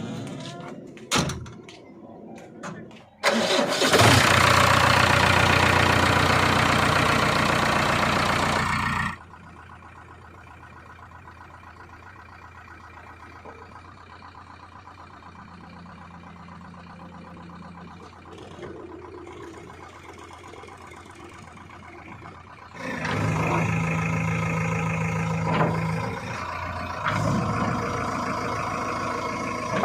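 Heavy diesel machinery running, with a few sharp knocks at first. A loud stretch of several seconds cuts off abruptly, then a quieter steady run follows, and near the end a loud steady run with a low hum.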